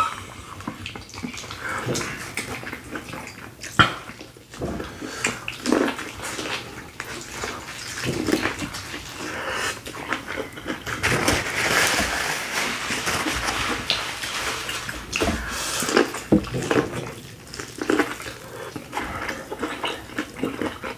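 Close-miked wet chewing, lip smacking and slurping of people eating sauce-coated corn on the cob, with many short wet clicks and smacks.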